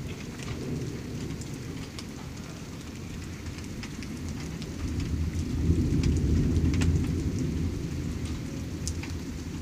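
Rain falling steadily, with scattered drops ticking sharply. A low rumble of thunder swells about halfway through and slowly fades.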